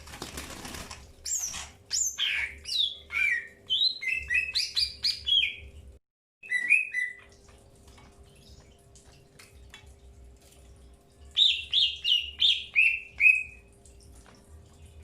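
Green leafbirds (cucak hijau) calling: a burst of varied chirps and gliding whistles in the first half, then after a lull a quick run of about eight notes stepping down in pitch near the end. A faint steady hum sits underneath.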